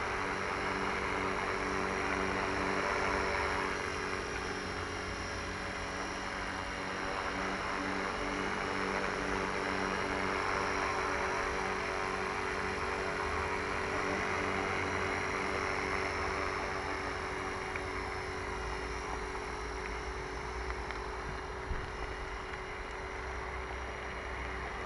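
Small motor and propeller running steadily with a constant hum, the whirring rising and easing several times.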